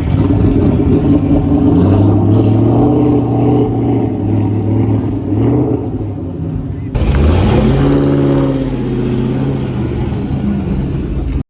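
Car engines running and being revved, the pitch rising and falling. After an abrupt cut about seven seconds in, one engine revs up sharply and settles back.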